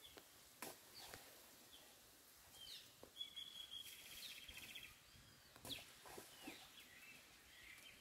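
Near silence with faint bird calls: a rapid trill of repeated notes about three seconds in and scattered short chirps, with a few soft clicks.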